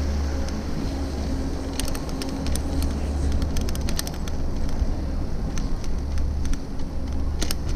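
Ride noise from a moving bicycle: a steady low rumble of wind on the microphone and rolling road noise, with scattered sharp clicks and rattles.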